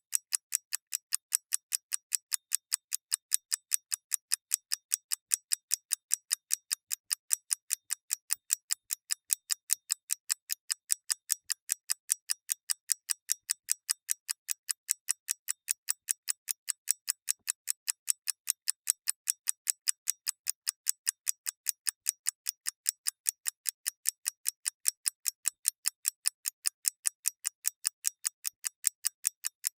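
Clockwork mechanism ticking, rapid and even, several sharp ticks a second.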